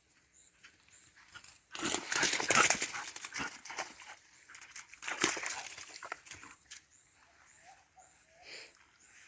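A cattle dog making loud, rough, noisy sounds for about a second and a half, starting about two seconds in, with a shorter burst a few seconds later and fainter sounds after that.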